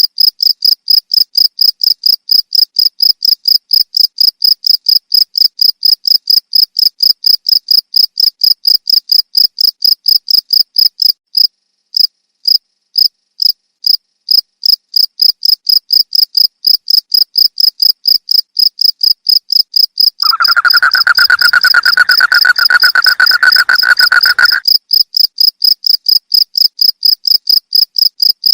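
Cricket chirping: a steady, high-pitched train of short pulses, about four a second. About two-thirds of the way through, a lower continuous buzz joins for about four seconds, then stops.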